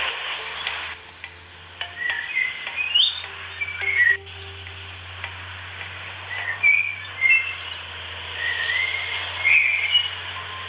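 Short, scattered high chirps, like a small bird calling, over a steady high hiss and a low hum.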